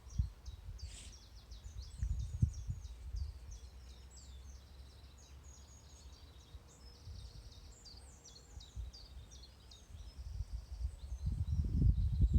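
A chorus of small songbirds singing, with many quick, high chirps and trills overlapping throughout. Low rumbling on the microphone about two seconds in and again near the end is the loudest part.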